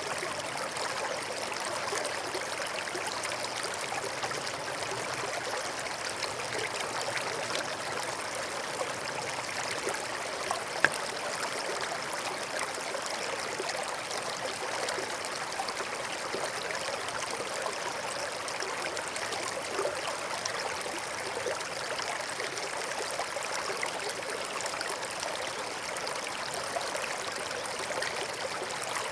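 Forest stream running water, a steady unbroken rush. One brief, louder click stands out about eleven seconds in.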